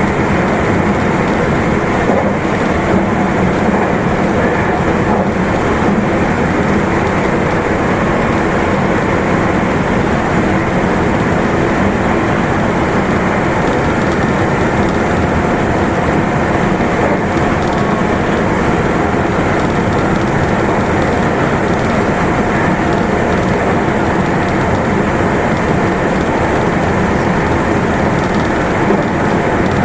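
Meitetsu limited express electric train running at speed, a steady rumble of wheels on rail heard inside the passenger car, with a faint steady whine above it.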